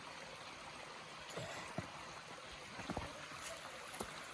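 Steady rush of stream water, with a few short knocks and thumps scattered through, the loudest around three seconds in.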